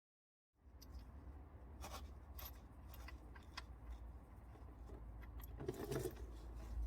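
Faint, irregular metallic clicks and scrapes of a socket and ratchet working an engine oil sump plug loose, over a low steady hum. The sound starts suddenly about half a second in.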